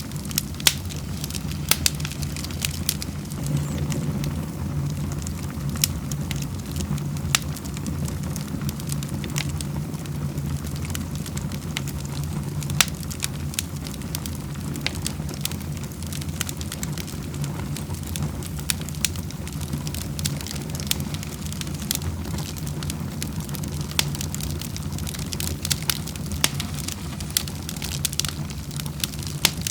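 Wood burning in a fireplace, crackling with irregular sharp pops over a steady low rumble.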